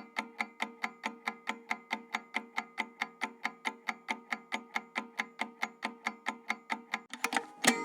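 Clock-ticking timer sound effect: evenly spaced, slightly pitched ticks at about four a second. Near the end a short swelling whoosh leads into one loud sharp hit, and the ticking carries on after it.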